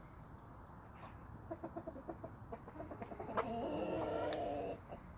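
Domestic chickens clucking: a run of short clucks, several a second, then one louder drawn-out call of about a second and a half, with a couple of sharp taps in the middle.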